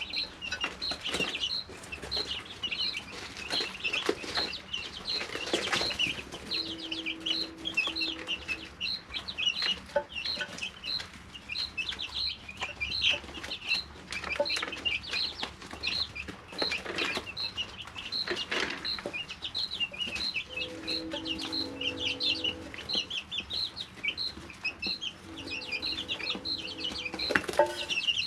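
A brood of 3-week-old chicks peeping and chirping without pause. One high peep repeats evenly about three times a second over the others' chirps, with scattered light clicks and scuffs.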